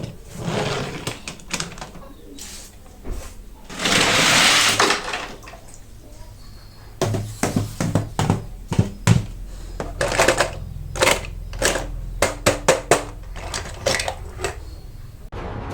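Hands handling toy-car packaging and die-cast cars: a burst of rustling noise about four seconds in, then a quick run of sharp clicks and taps.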